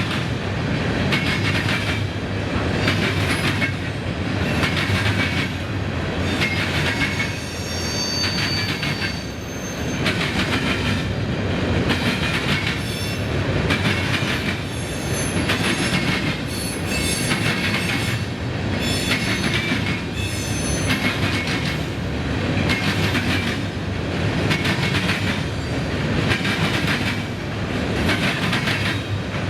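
Freight train rolling past, its wheels clattering over the rails in a steady repeating rhythm, with high metallic wheel squeal coming in during the middle of the passage.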